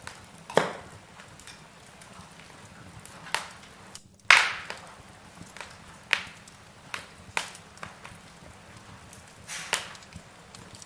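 Logs burning in a fireplace, crackling under a low hiss with about eight sharp, irregular pops; the loudest pop comes a little over four seconds in.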